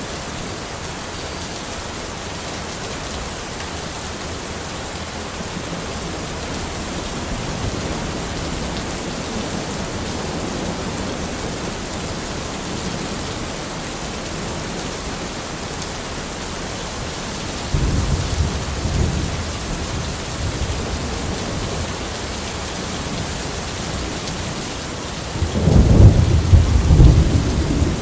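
Steady rain falling in a forest, with a low rumble of thunder starting about eighteen seconds in and a louder rumble near the end.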